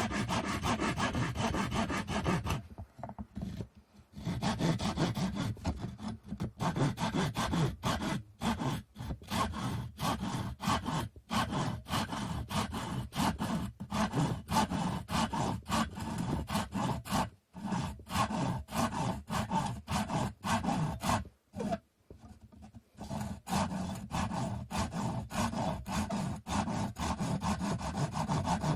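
Hand saw cutting through a wooden stick in quick back-and-forth strokes, with a few short pauses.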